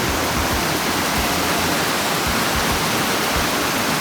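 Steady roar of a waterfall's rushing water, an even hiss with no breaks.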